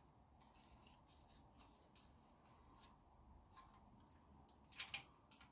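Near silence with faint handling sounds: light clicks and rubbing as a cut piece of plastic milk carton is worked inside a rubber fork dust seal over the fork tube, with a short cluster of clicks near the end.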